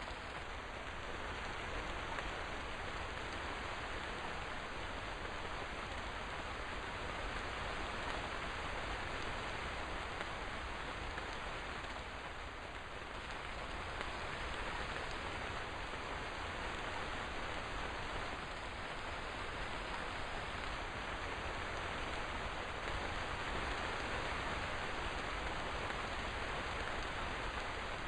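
Steady rain falling, an even hiss of drops without thunder.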